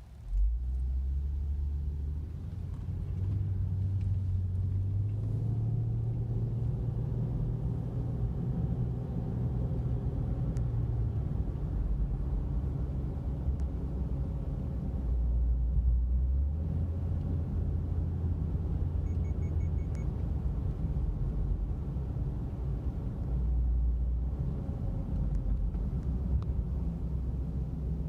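A 2016 Subaru Outback 3.6R's flat-six engine and exhaust, fitted with stock 2017 WRX mufflers, heard from inside the cabin while driving. The low, deep engine note rises and falls as the car accelerates and eases off, over steady road noise.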